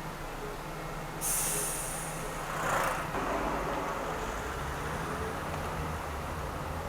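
Steady engine and road noise of a car driving in city traffic. About a second in, a sudden sharp hiss starts and fades within a second, followed by a louder whoosh a little later.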